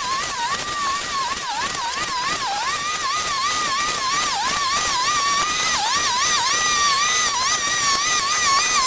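A small high-revving motor whining steadily at a high pitch, its pitch dipping briefly again and again.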